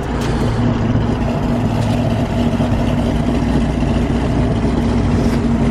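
A motor vehicle's engine running steadily close by, a loud even hum with a steady pitch.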